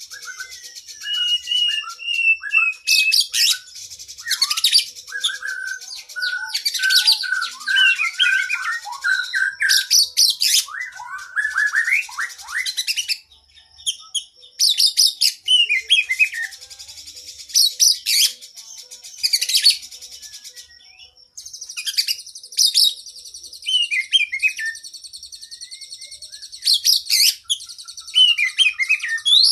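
Oriental magpie-robin (kacer) singing a long, varied song full of mimicked phrases of other birds. Slurred whistled notes alternate with bursts of rapid, high chattering notes.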